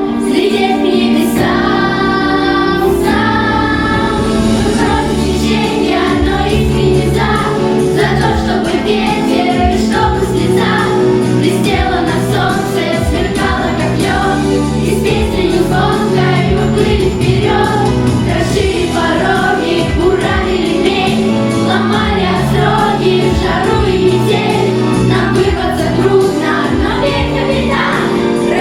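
A song sung by a choir over instrumental backing.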